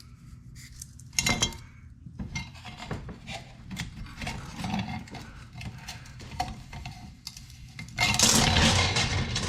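Small metal parts of a Honda ATC185 recoil starter clinking and rattling as they are handled, with scattered light clicks and a louder knock about a second in. A denser, louder stretch of handling noise comes near the end.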